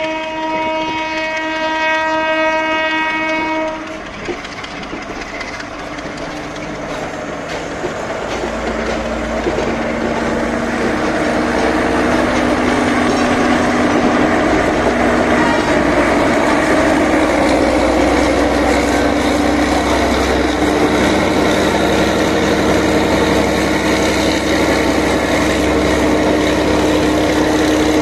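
A Sri Lanka Railways Class S10 diesel multiple unit sounds its horn in a steady chord for about four seconds. Its diesel engine then runs and the train's running noise builds, growing louder over the following several seconds and staying loud as the train passes.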